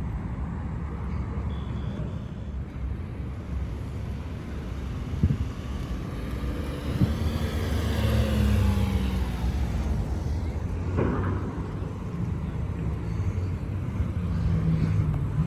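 Car engines idling with a steady low rumble, and a car driving past, swelling and fading about eight seconds in. A few short knocks sound around five, seven and eleven seconds.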